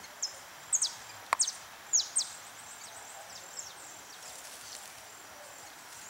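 Birds chirping: a string of short, high chirps that each sweep downward, bunched in the first couple of seconds and sparser after, over a faint steady hiss, with one sharp click about a second and a half in.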